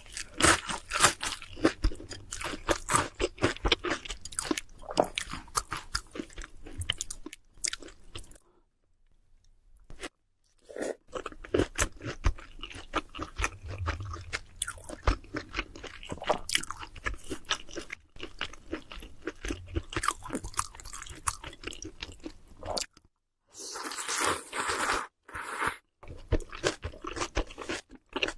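Close-miked mukbang eating: crisp fried food such as pork cutlet, tempura or fried chicken being bitten and chewed, a dense run of crunches with a pause of about two seconds around nine seconds in.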